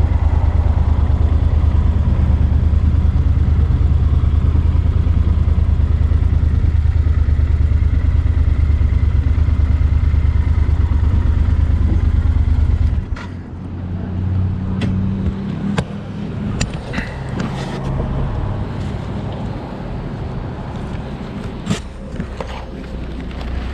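Yamaha Super Ténéré XT1200 parallel-twin engine running under way with a steady, loud drone. About halfway through, the drone drops off abruptly to a quieter, uneven engine sound with scattered clicks and knocks.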